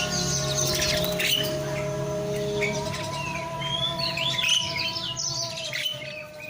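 Asian pied starling (jalak suren) chirping and whistling in quick, varied short calls, with steady held tones underneath.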